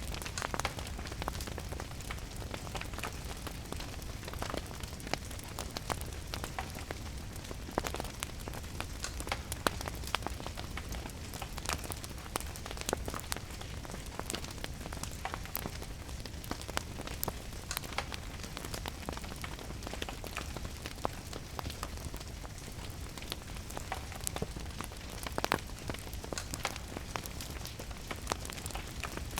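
Steady rain with a wood fire crackling: frequent sharp, irregular pops and snaps over a constant hiss and low rumble.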